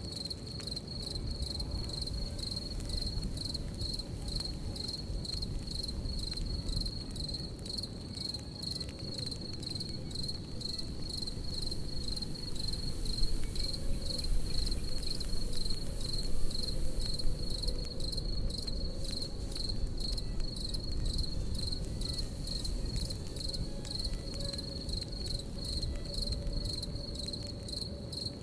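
Crickets chirping in a steady, rapid pulsing trill over a crackling campfire, with a low rumble of fire noise underneath. A few louder crackles come about halfway through.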